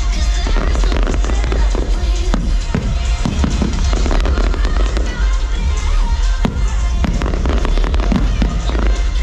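Fireworks going off in quick succession, many bangs and crackles, over loud show music.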